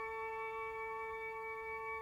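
Symphony orchestra, live, holding a soft sustained chord, with woodwinds prominent on steady notes.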